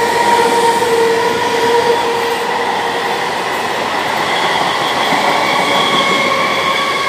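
Suburban EMU local train running through the station without stopping: a steady, loud rush of wheels on rail with a whine over it that shifts a little higher about five seconds in.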